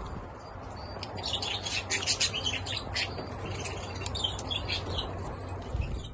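Budgerigars chirping and chattering in quick, short calls over a steady low background noise, busiest from about a second in until near the end.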